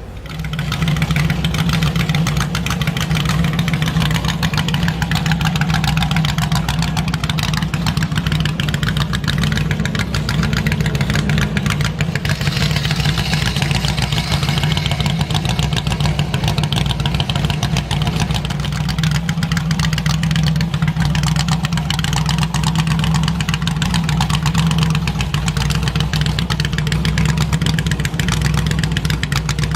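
Shelby Daytona Cobra Coupe's V8 idling steadily through its exhaust, loud from about half a second in.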